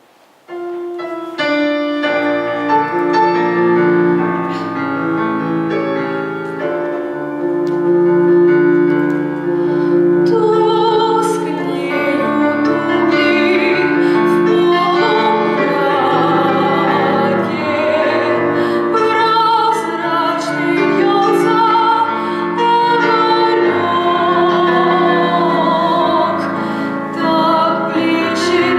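A Russian romance: a piano introduction, joined about ten seconds in by a woman's voice singing in classical style with vibrato, over the piano accompaniment.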